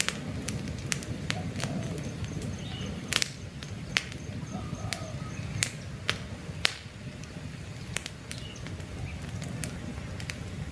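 Campfire crackling, with sharp irregular pops from the burning logs over a low steady rumble of flame. Faint bird calls come now and then in the background.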